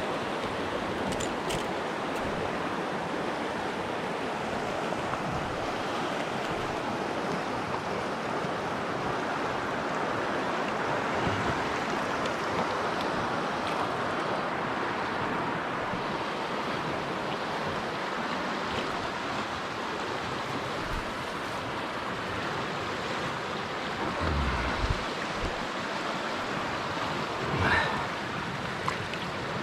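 River water rushing steadily over a rocky bed. A few dull knocks and a short louder rasp come near the end.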